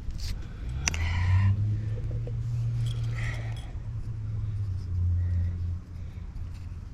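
A low, steady engine-like rumble lasting about five seconds, with a sharp click about a second in.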